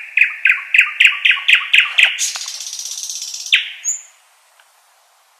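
Nightingale singing: a run of about ten loud repeated notes, then a higher, harsh rattling trill lasting over a second. The phrase stops about four seconds in.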